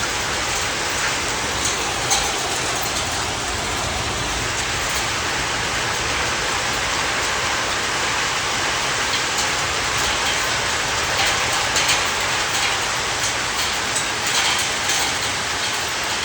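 Heavy rain falling steadily in a hailstorm, with scattered sharper taps through it, more of them in the second half, typical of hailstones striking hard surfaces.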